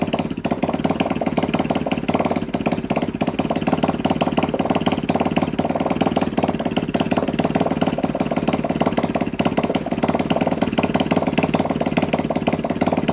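Small 150cc GPX single-cylinder engine running steadily at idle on the bench, finally started after many attempts.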